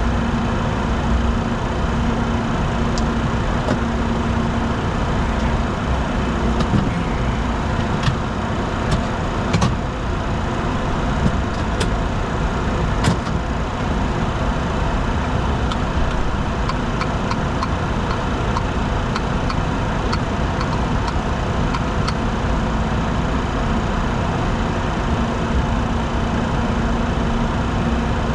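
Steady flight-deck noise of a Bombardier Challenger 604 jet in flight: air and engine noise with a constant hum. A few sharp clicks come in the first half, and a quick run of small ticks about two thirds of the way through.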